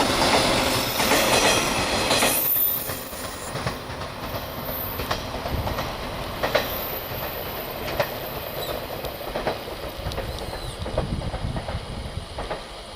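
A JR 115 series electric multiple unit running past. Its loud running noise drops off about two seconds in, leaving single wheel clacks over rail joints every second and a half or so, with faint wheel squeal.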